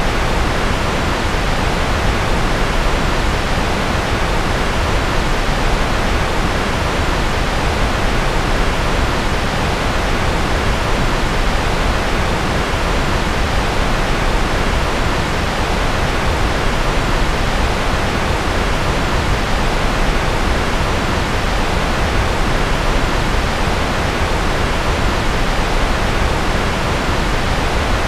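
Steady, unchanging generated noise of the white-noise kind: a constant even hiss and rush, fuller in the low end than in the highs.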